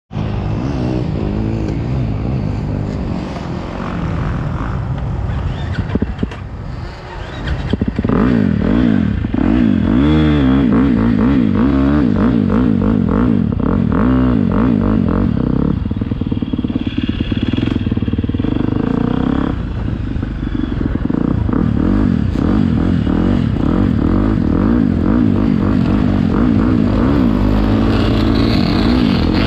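Motocross bike engine revving up and dropping off over and over, loud throughout, with a brief easing of the throttle about six to seven seconds in.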